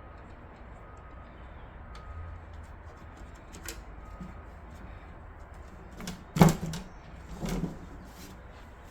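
Scattered light clicks, then two louder knocks about a second apart, from computer case parts and tools being handled.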